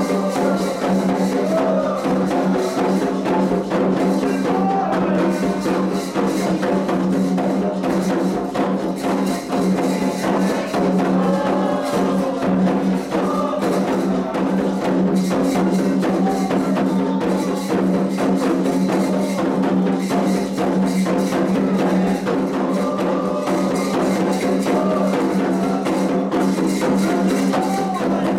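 Candomblé atabaque drums playing a continuous, driving rhythm for Oxum's dance, with strokes packed closely together and faint singing over them. A steady low hum runs underneath.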